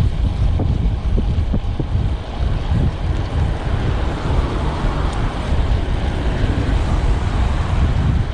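Wind buffeting the camera microphone of a moving road bike, a steady low rumble, with road noise swelling a little in the middle.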